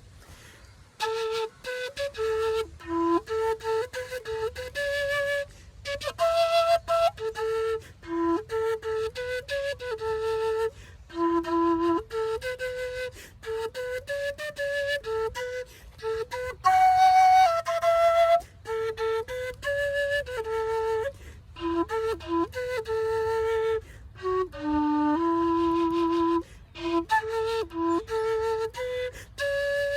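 Solo quena, the Andean notched end-blown flute, playing a melody in short phrases of held notes with brief breaths between them and vibrato on some longer notes.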